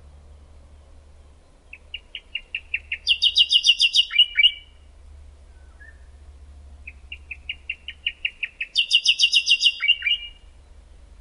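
A songbird sings the same song twice, with a pause between. Each song is about three seconds of quickening, repeated notes that run into a brighter, louder trill and end in a quick downward flourish.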